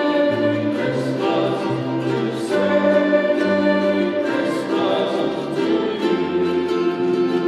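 Music: a choir singing sustained chords with orchestral accompaniment over a bass line that moves in steady steps.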